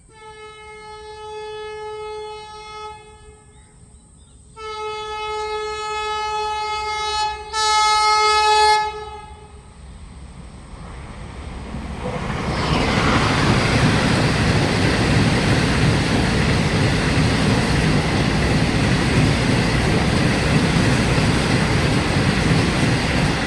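Vande Bharat Express sounding its horn three times, the last blast the loudest, then the train passing at high speed with a loud, steady rush of wheels on rails.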